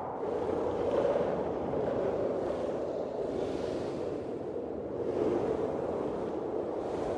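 Blizzard wind blowing, a steady rushing noise that swells and eases in gusts.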